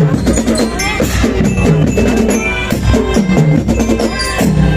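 Elementary-school marching band playing, with snare and bass drums beating time under a pitched melody.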